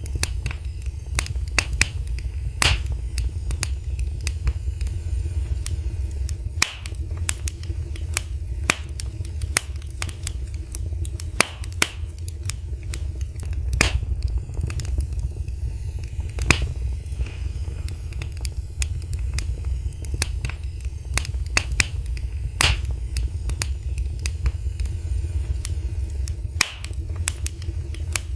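Wood fire burning in a fireplace, crackling and popping with many sharp, irregular snaps over a steady low rumble of the flames.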